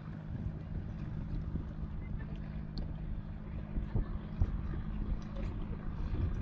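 A steady low engine hum, with wind rumbling on the microphone and a few faint clicks.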